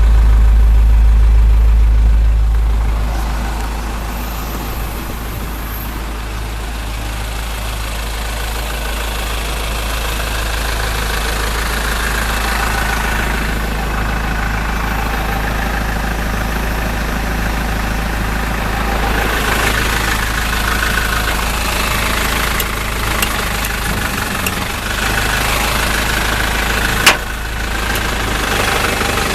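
Truck engine idling steadily, with a heavy low rumble for the first few seconds before settling to a lighter, even run. A single sharp click comes near the end.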